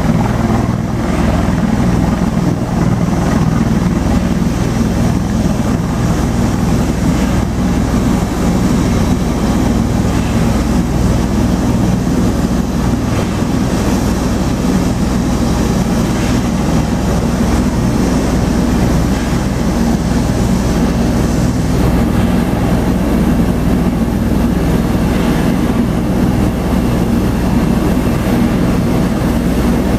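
Bell Boeing V-22 Osprey tiltrotor running, its two turboshaft engines and proprotors making a steady, heavy, low-pitched drone.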